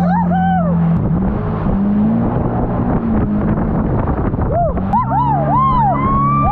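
Jet ski engine running steadily, its pitch dipping and rising again as the throttle changes.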